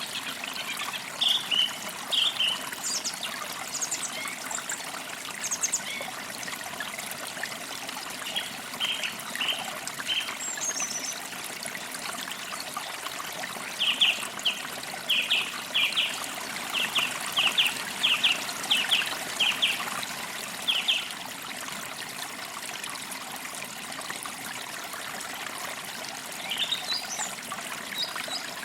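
Creek water trickling and running steadily, with songbirds chirping over it in short repeated notes, including a quick run of about a dozen chirps midway through.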